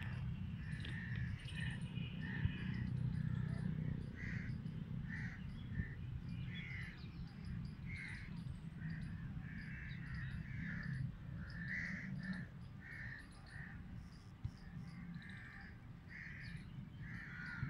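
Birds calling outdoors: short calls repeated about once or twice a second, over a steady low rumble.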